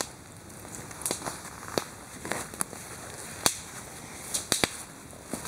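Wood campfire crackling, with irregular sharp pops, the loudest at the very start and about three and a half seconds in.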